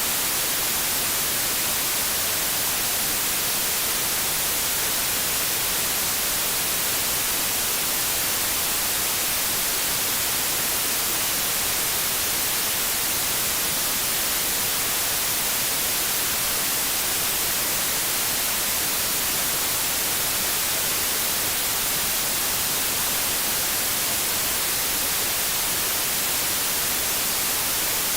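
Television static: steady, unchanging hiss, brightest in the high end, with no breaks or tones.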